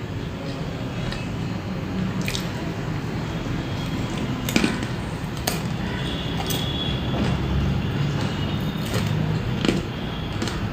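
Close-up chewing of a homemade cauliflower singara (a fried pastry stuffed with cauliflower, peas, peanuts and potato), with a handful of sharp crunches spaced irregularly through the chewing. A steady low hum runs underneath.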